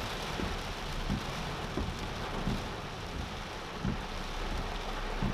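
Heavy tropical-storm rain pouring down in a steady hiss, with a low thump repeating about every two-thirds of a second.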